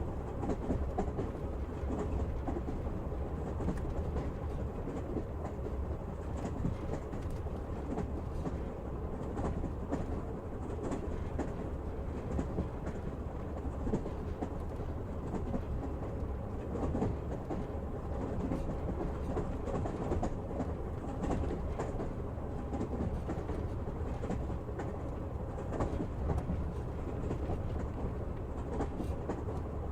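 Train wheels running on the rails, heard from inside a railway carriage: a steady low rumble with frequent clicks and knocks from the track.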